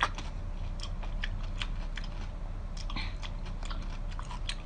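A person chewing a large mouthful of skewered seafood close to the microphone: a run of short, irregular clicks, the sharpest right at the start.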